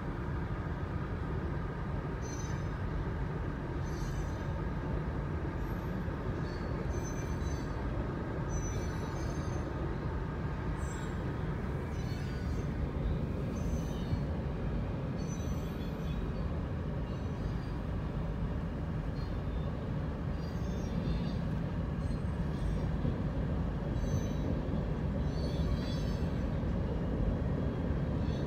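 Freight train of covered hopper cars rolling past with a steady heavy rumble. Short high-pitched squeals from the wheels recur every second or two.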